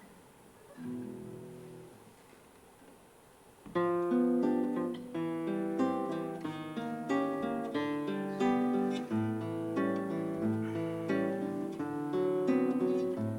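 Acoustic guitar: a soft chord about a second in, then, about four seconds in, it starts playing an introduction of plucked notes and chords.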